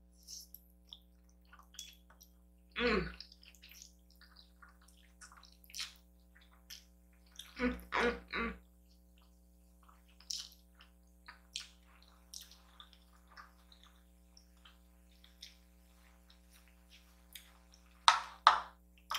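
Close-up eating sounds: wet chewing and slurping of noodles, with many small clicks and a few louder bursts about three, eight and eighteen seconds in.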